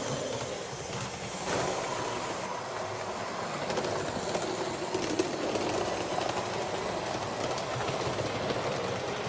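H0-scale model train running along the track: a steady rolling rumble that steps up about a second and a half in, with a few faint clicks around the middle.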